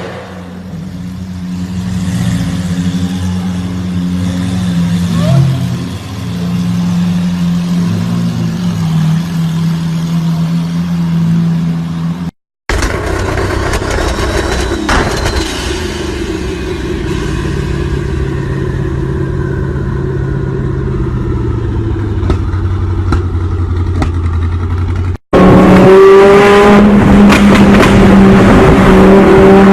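Car engines and exhausts in three separate clips: first an engine running at a fairly steady pitch, then one whose pitch falls away slowly, and near the end a louder engine revving up with a rising pitch.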